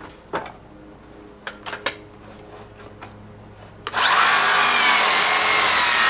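A few light knocks, then about four seconds in a power saw starts up abruptly and cuts through a pallet board, loud and steady with a wavering whine.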